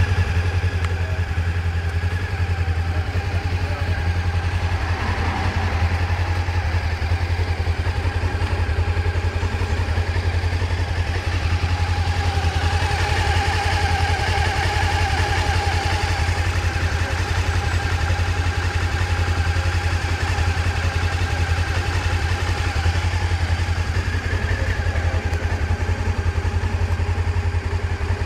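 Honda CB500S liquid-cooled parallel-twin engine idling steadily, warm after a run.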